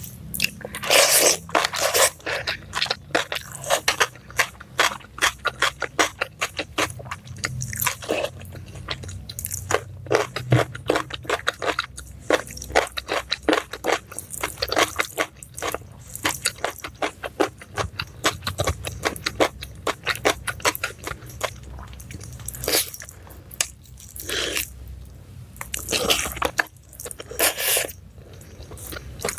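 Close-miked eating: a person chewing crunchy food in many quick, irregular crunches with wet mouth sounds, while fingers pick up rice and side dishes by hand.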